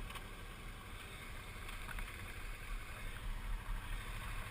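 Suzuki V-Strom 650's V-twin engine running under way, under steady wind rush on the microphone.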